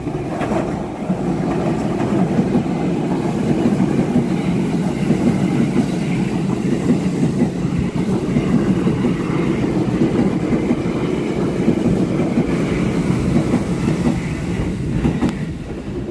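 Multi-car electric express train running past close along the platform: a steady, loud rumble of wheels on rail that swells up about half a second in.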